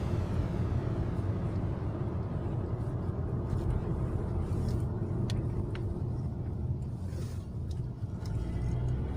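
A car running at low speed, a steady low rumble of engine and road noise, with a couple of faint clicks about five seconds in.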